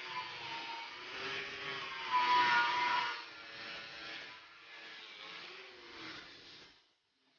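Angle grinder polishing stainless steel, its whine wavering in pitch as the disc meets the work. It gets louder about two seconds in and cuts off near the end.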